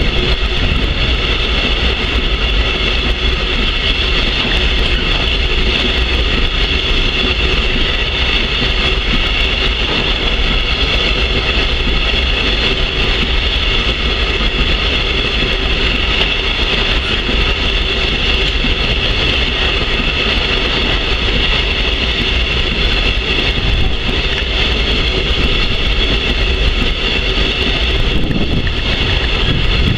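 Freight train of ballast hopper wagons rolling past close by: a steady rumble of wheels on rail with a continuous high-pitched squeal over it.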